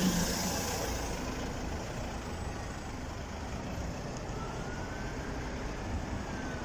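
Street traffic by a bus stop: a large road vehicle's engine fades away in the first second, leaving a steady traffic rumble, with a faint high whine that rises and then falls in the second half.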